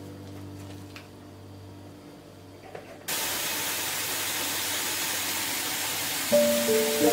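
A steady, loud hiss of noise that switches on suddenly about three seconds in, after a fading low hum; a few musical notes come in near the end.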